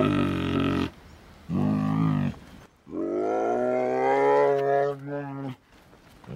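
Bear calling: three drawn-out, pitched calls, the first two about a second long and the third nearly three seconds, rising a little in pitch at its start and then holding steady.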